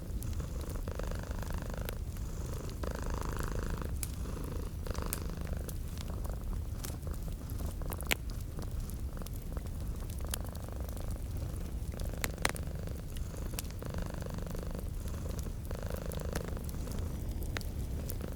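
Domestic cat purring steadily, swelling and easing with each breath every couple of seconds, with scattered sharp pops and crackles from a wood fire.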